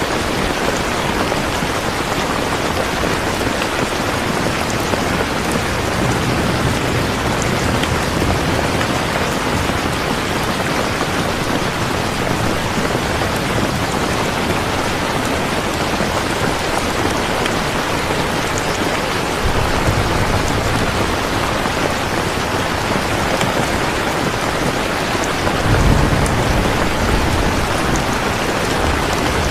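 Steady, heavy rain pouring down, with low rumbles of distant thunder swelling three times, the strongest near the end.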